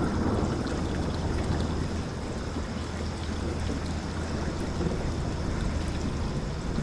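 A river flowing, a steady rushing of running water with a constant low rumble underneath.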